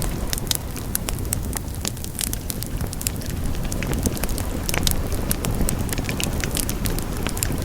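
Wood fire burning in a fireplace, a steady low rumble of the flames with frequent sharp crackles and pops at irregular intervals.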